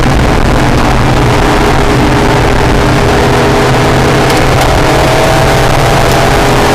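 Acura NSX's V6 engine running hard under track driving, mixed with heavy wind and road noise. The engine note holds fairly steady, then rises gradually from about two-thirds in as the car accelerates.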